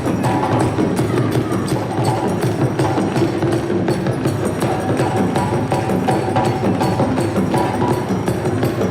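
Live parade percussion ensemble of African-style drums playing a fast, dense rhythm, with a higher melodic line coming and going above the drums.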